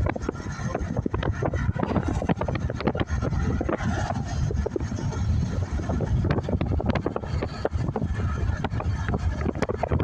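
Wind buffeting the microphone: a continuous low rumble with irregular crackling gusts.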